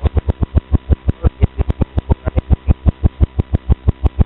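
Porsche 944's inline four-cylinder engine running at idle, heard at the exhaust outlet as a steady even puffing of about eight pulses a second over a low hum. It is running with the serpentine belt for the alternator and AC compressor off.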